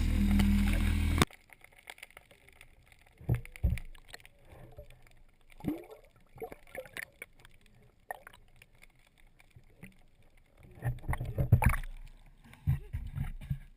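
Sounds aboard a small fishing boat: a steady engine drone cuts off suddenly about a second in, followed by scattered knocks, bumps and water sounds, with a cluster of them near the end.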